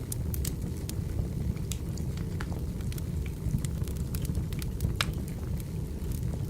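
Firewood burning: a steady low rumble of flames with frequent irregular crackles and pops, one sharper pop about five seconds in.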